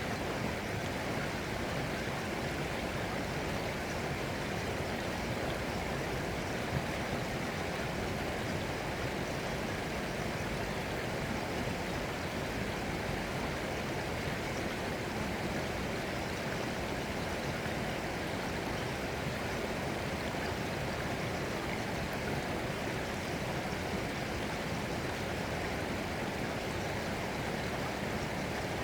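Flowing water, a stream running steadily without a break.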